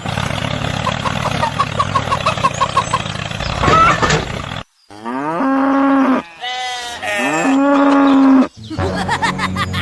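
A cow mooing twice, two long calls of about a second each. Before them comes a noisy stretch holding a quick run of short high pips.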